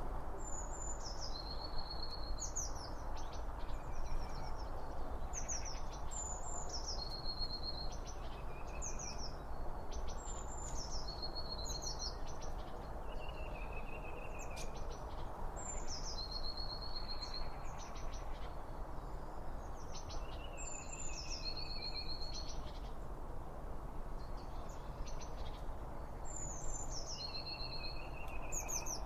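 A songbird repeating one short song about every four to five seconds: a high downward slur that runs into a steady trill, with some lower notes between phrases. Under it runs a steady rushing noise.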